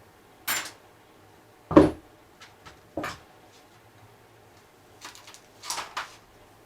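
A few separate knocks and clinks of tools and parts being handled during work on a motorcycle engine, the loudest and heaviest about two seconds in and a small cluster near the end.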